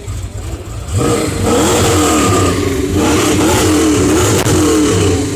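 A car engine revved loudly, starting suddenly about a second in over a low idling rumble. Its pitch rises and falls with repeated blips of the throttle until just before the end.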